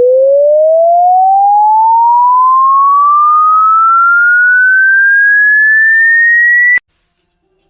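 Loud electronic sine-wave frequency sweep: a single pure tone rising smoothly and steadily in pitch from low to high, then cutting off abruptly near the end.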